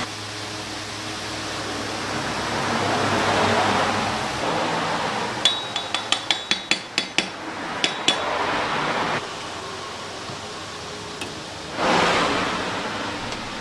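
A quick run of about ten sharp, ringing clinks of hard objects striking each other, over two and a half seconds, against a rushing noise that swells and fades twice.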